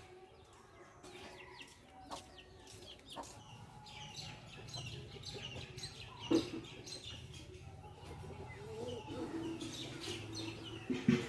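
Aseel chicks peeping: many short, high chirps that slide downward, busier from about four seconds in. Two sharp knocks, one about six seconds in and one near the end, are the loudest sounds.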